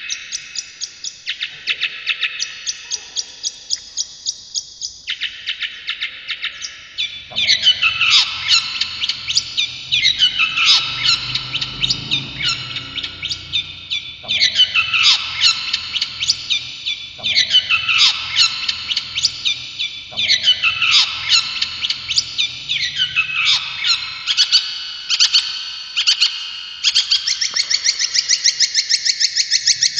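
Cendet (shrike) singing in rapid chattering trills of fast repeated high notes. From about seven seconds in it repeats a falling phrase roughly every three seconds, and near the end it breaks into a fast, even trill.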